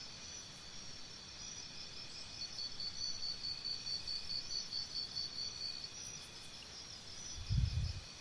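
Insects chirping in a steady chorus of rapid pulses, with a brief low thump near the end.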